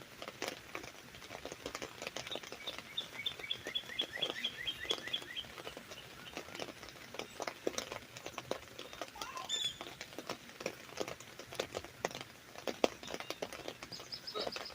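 Raindrops hitting an umbrella canopy in an irregular patter. A bird sings a rapid run of repeated notes from about two seconds in, and gives a short sweeping call near the middle.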